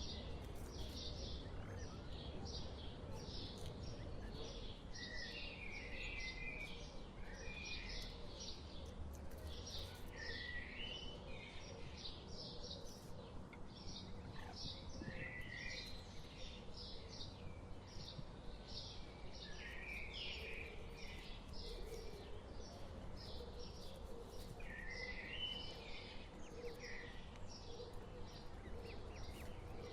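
Birds chirping: a short high chirp repeated about twice a second, with occasional lower warbling notes, over a steady low background rumble.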